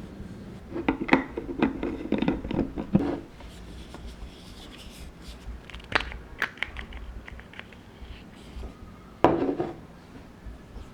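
Small objects being handled: quick clatters and taps in three bunches, the first about a second in, a shorter one around six seconds, and a last sharp knock with a brief clatter a little after nine seconds.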